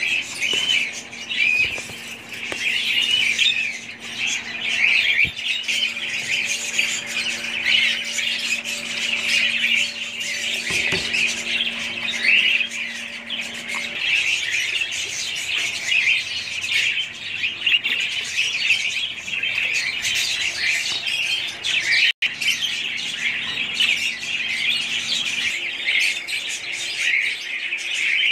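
A flock of budgerigars chattering continuously: many birds warbling and chirping at once in a dense, high-pitched chatter, with a split-second break about three quarters of the way through.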